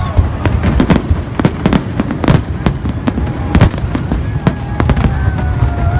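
Fireworks display bursting: a rapid, irregular string of sharp bangs and crackles, more than a dozen in six seconds, over a steady low rumble.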